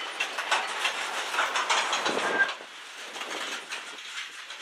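Loaded covered hopper cars of a freight train rolling past, their steel wheels clicking and clattering over the rails, with a short high squeal a little over two seconds in. The clatter eases after about two and a half seconds.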